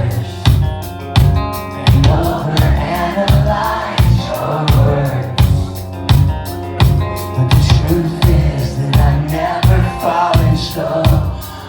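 Rock band playing live: a steady drum kit beat with kick-drum hits about twice a second, guitars and singing.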